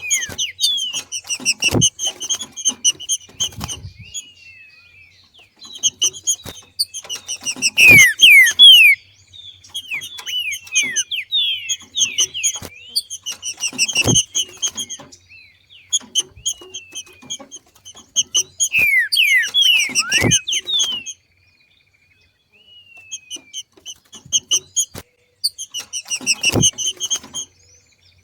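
Green-winged saltator (trinca-ferro) giving its 'macheado' call: bursts of rapid high chips and down-slurred notes, repeated about every six seconds with short pauses between them. A sharp knock comes near the start of several bursts.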